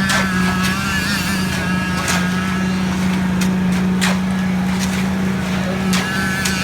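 A steady, loud drone of engine-driven concrete-pouring machinery, holding one even pitch, with a few scattered knocks over it.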